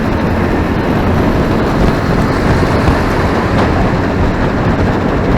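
Motorcycle being ridden on a city road: steady engine and wind noise.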